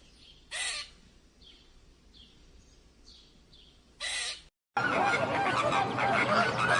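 Two short harsh bird calls, one about half a second in and one about four seconds in, with faint high chirps between them. After a brief silence, a loud dense chorus of many birds calling at once begins abruptly.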